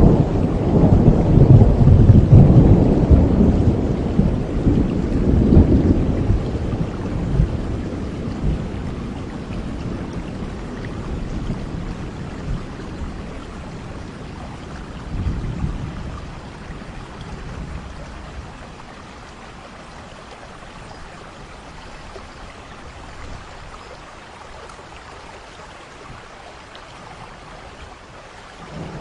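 Steady rain with a long roll of thunder over the first several seconds that slowly fades out, a smaller rumble about halfway through, then rain alone.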